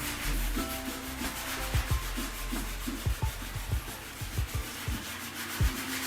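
Sandpaper being rubbed by hand over wood in quick back-and-forth strokes, a steady scratchy hiss.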